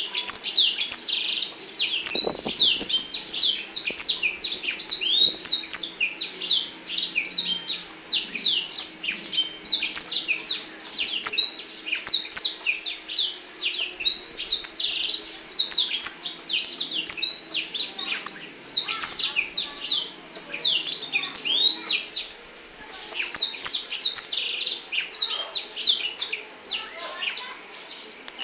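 Black-throated canary (blackthroat) singing a long, unbroken song of rapid, high twittering notes that sweep downward, with only a short lull about three-quarters of the way through.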